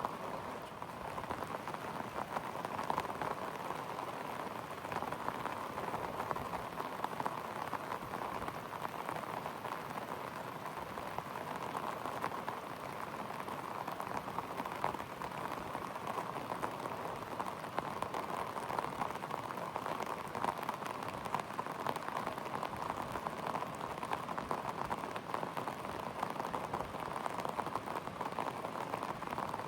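Steady rain falling: a continuous hiss of drops with many small, dense ticks of individual drops hitting surfaces.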